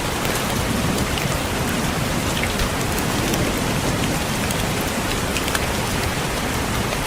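Steady rain pattering on a window, a dense even hiss with many small drop ticks scattered through it.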